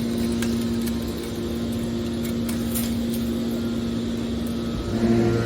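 Hydraulic scrap metal baler running with a steady hum, a few faint clicks over it; a deeper drone joins near the end.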